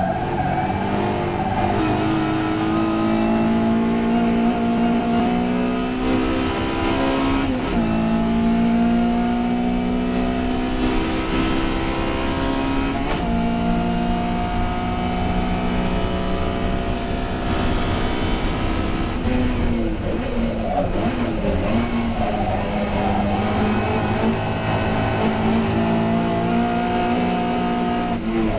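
Touring race car engine at full throttle, climbing in pitch and dropping sharply at two upshifts. Later it falls and wavers under braking and downshifts, then climbs again as it accelerates.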